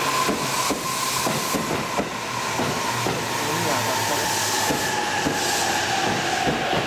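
185 series electric multiple unit running through the station. Its motor whine falls slowly in pitch as the train slows, with irregular clicks from the wheels over the rail joints.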